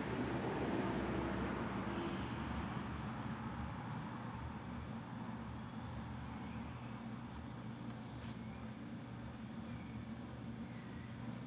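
Outdoor insects, crickets or the like, trilling in a continuous high-pitched drone over a low steady hum and background hiss.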